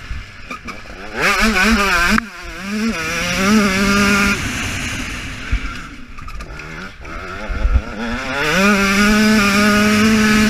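2015 KTM 125 two-stroke single-cylinder motocross engine revving hard under load. The revs climb and cut off sharply about two seconds in, then climb again and hold. The throttle is shut for a few seconds, with a couple of low thumps, before the engine revs back up and holds high revs near the end.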